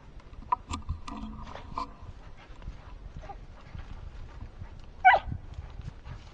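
Rabbit-hunting dogs giving voice: a faint, drawn-out bawl or whine early on, then one short, loud yelp about five seconds in.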